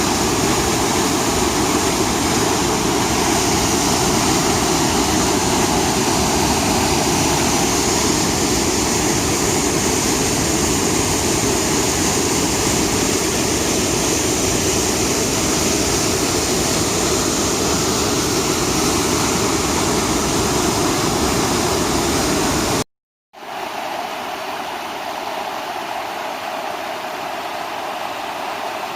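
Steady rush of a large waterfall running high with rain. Past the middle it cuts off for a moment and comes back quieter.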